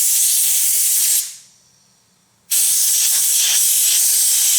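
Compressed-air blow gun hissing as it blows out a cleaned ball bearing. One blast cuts off about a second in, and a second blast starts sharply about two and a half seconds in.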